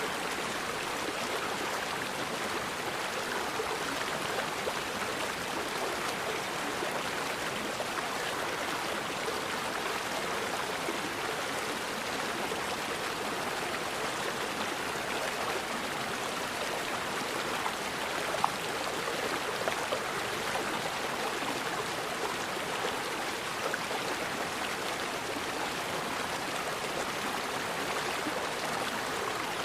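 River water flowing over rocks, a steady rushing and gurgling, with a sharp tick or two a little past halfway.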